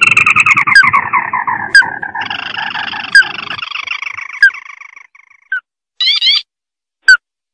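Crake calls: a long chattering trill that slowly falls in pitch and fades out over about five seconds. Single sharp upward-sweeping notes come about once a second, and a short burst of rising notes follows near the end.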